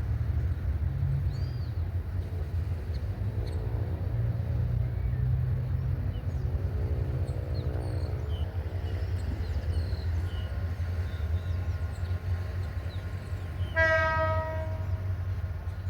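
GT22 diesel-electric locomotive rumbling steadily as it hauls a local train, with one loud horn blast near the end that fades out over about a second. Birds chirp faintly.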